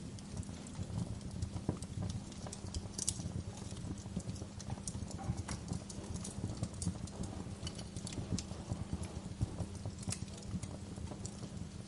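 Wood fire crackling: dense, irregular snaps and pops over a steady low rumble, with a couple of louder pops about three seconds in and near the end.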